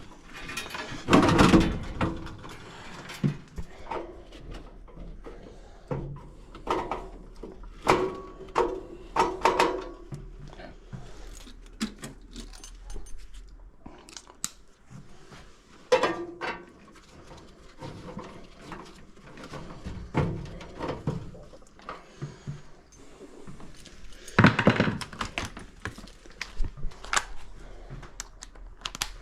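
Irregular knocks, clunks and clicks of parts and tools being handled during blower work, with louder bumps about a second and a half in, around sixteen seconds in, and near twenty-five seconds in.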